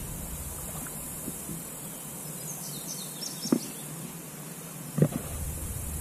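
Outdoor summer ambience: a steady high insect buzz throughout, with a short run of bird chirps in the middle. Two brief knocks come a little past halfway and again near the end.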